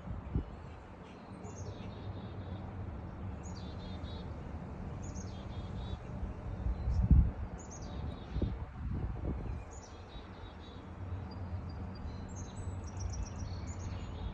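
A bird calling over and over, a short phrase of high chirps about every second or so, over a low steady rumble. A couple of dull thuds near the middle are the loudest sounds.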